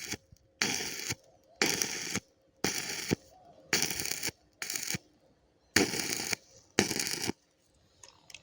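Electric arc welding in short strikes: about seven bursts of crackling arc noise, each around half a second long, coming roughly once a second with quiet gaps between.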